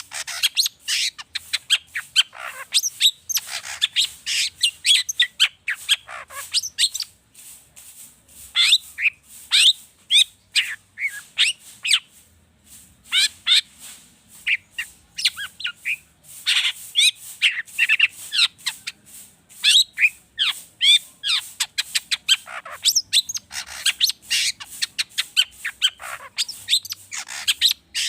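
Long-tailed shrike (cendet) singing a fast, varied song of quick falling chirps and harsher notes, full of mimicked phrases of other birds, in dense runs broken by short pauses.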